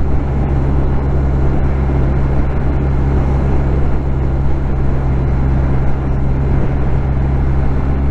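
BMW R1250R's 1254 cc boxer-twin engine running at steady revs while cruising, with wind rush, heard through a microphone inside the rider's helmet.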